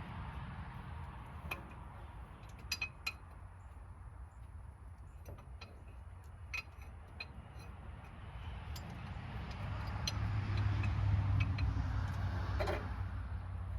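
Scattered light metallic clinks and ticks of tools being handled, over a steady low hum that swells for a few seconds near the end.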